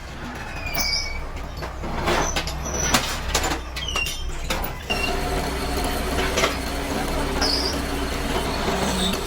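Workshop machinery running with a steady low hum, with a run of sharp metallic knocks in the middle and a steady whine from about halfway on. Short high squeaks or chirps come and go throughout.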